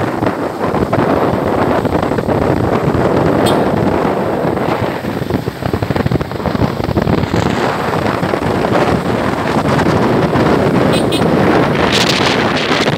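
Wind buffeting the microphone on a moving motorcycle, with the bike's engine and road noise running underneath at a steady loud level.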